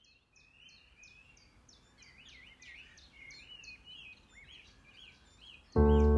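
Faint ambience of high chirping calls repeating a few times a second, overlapping one another. About six seconds in, a loud held music chord with a deep bass note comes in suddenly.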